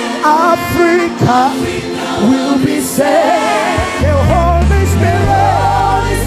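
Live gospel music: voices singing long, wavering melodic runs over sustained accompaniment, with deeper low notes coming in about four seconds in.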